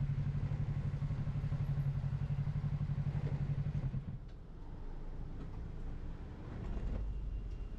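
Motorcycle engine idling with an even, pulsing throb, then shut off about four seconds in, leaving a quieter low rumble.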